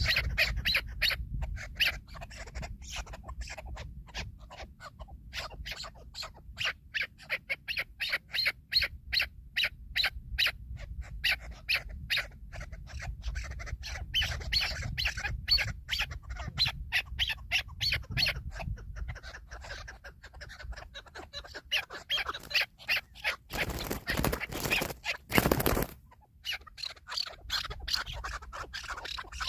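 Chukar partridge calling, a long run of rapid, repeated clucking notes. About three-quarters of the way through, a loud burst of noise covers the calls for a couple of seconds.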